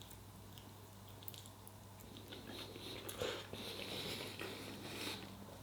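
Faint chewing of food in the mouth, picking up from about two seconds in, over a low steady hum.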